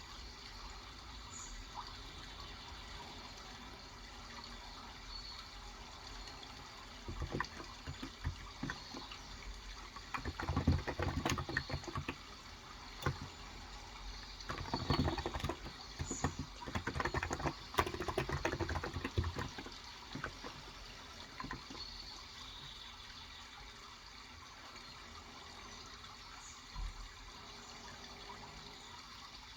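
Bursts of typing on a Cox Endeavor electrocapacitive (Topre-style) keyboard with 35 g switches, from about seven seconds in until around twenty seconds, then a pause. Underneath is a steady sound of running water, with a few faint bird chirps.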